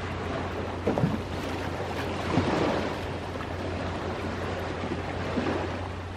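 Ocean waves washing steadily on the shore, with a few sharp crackles of a wood campfire, near one second in, about halfway and again after five seconds.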